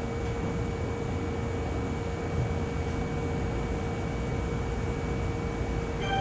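Railway platform ambience: a steady low rumble with a constant electrical hum from a standing electric train. A chiming departure melody begins right at the end.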